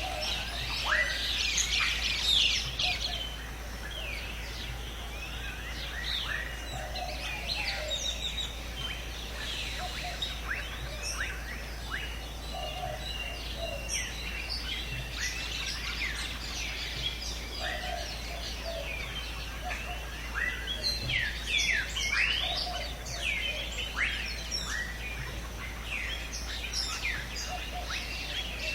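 A dense chorus of many birds chirping and calling, with quick rising and falling whistled notes layered over one another and short lower notes repeating beneath. The calls grow busiest about two seconds in and again past the twenty-second mark.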